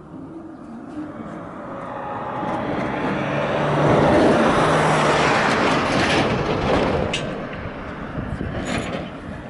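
A motor vehicle passing by. Its sound builds over about four seconds, stays loudest for a few seconds, then fades away.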